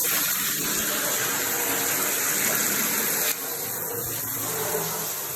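Water spraying from a handheld shower head, a steady hiss. About three seconds in the spray changes and turns slightly quieter as the head is switched to its last spray setting.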